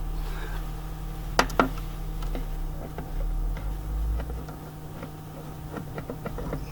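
Two sharp knocks in quick succession about a second and a half in, then scattered light ticks and taps, over a steady low hum: tools and parts being handled during the repair work.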